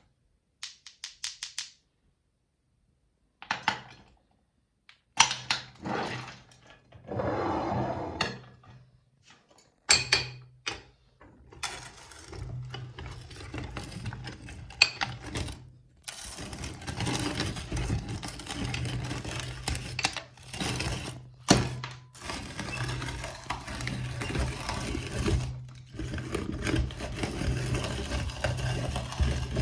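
Meat grinder crushing hard lollipop candy. A few sharp cracks and knocks come first, then from about ten seconds in the grinder's motor runs steadily under continuous crunching and grinding.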